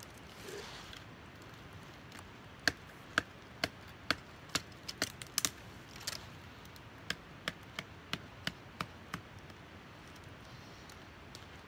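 Cold Steel pocket knife chopping into softwood: about seventeen sharp whacks, roughly two a second, in two runs with a short pause between them.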